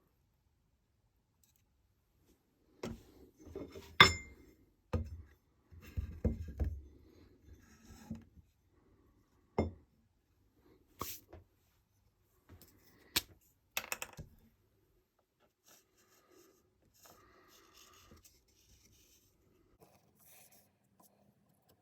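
Workshop handling noises: a scattered series of sharp knocks and clinks, the loudest about four seconds in, with a few dull thuds among them. Faint scratching follows for the last several seconds.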